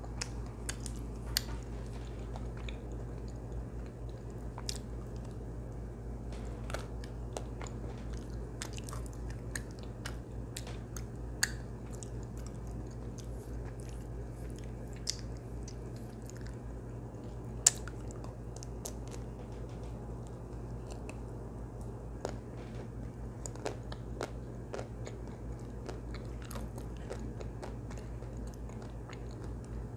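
Close-miked mouth sounds of someone biting into and chewing a chocolate-coated ice cream bar: wet chewing with scattered crisp cracks from the chocolate shell, a few sharper ones standing out, the loudest about 18 seconds in.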